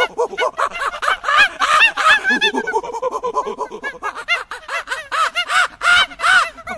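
A flock of fowl calling: many short, rising-and-falling calls from several birds at once, overlapping in a constant chatter.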